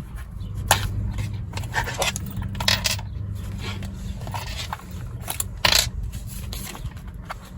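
A traveler's notebook and its paper inserts being handled: a string of short scrapes and rustles, a few seconds apart, over a steady low hum.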